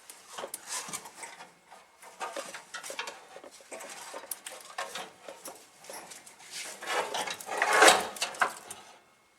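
Hand tools and metal parts clinking, clicking and scraping during work on an engine, with a louder, longer rattling scrape about seven seconds in.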